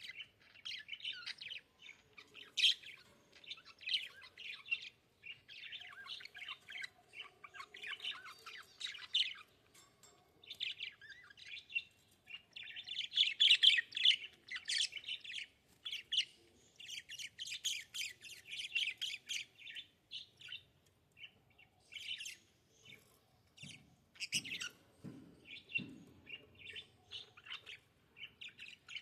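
Budgerigars chattering and warbling in a rapid, continuous stream of chirps. A few soft low knocks come near the end.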